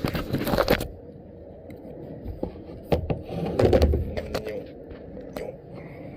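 A kayak and its paddle knocking and scraping, caught on a branch. The knocks come irregularly, the heaviest a little before halfway through.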